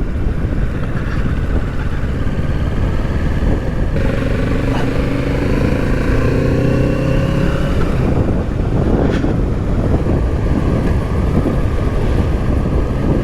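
Kawasaki Z650's parallel-twin engine running on the move under dense wind and road noise. About four seconds in, its note climbs for a few seconds as the bike accelerates.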